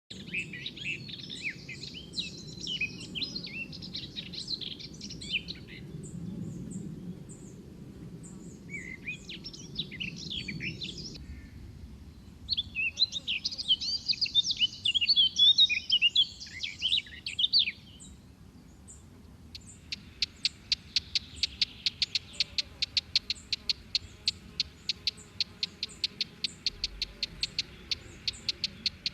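Songbirds singing: three bursts of quick, varied warbling chirps. About two-thirds of the way through, a fast, evenly repeated series of sharp notes takes over, several a second.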